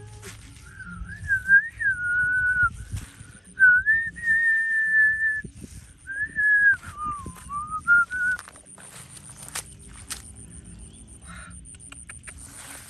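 A person whistling a tune: one clear note moving up and down in held notes and short phrases for about eight seconds, followed by a few clicks and knocks.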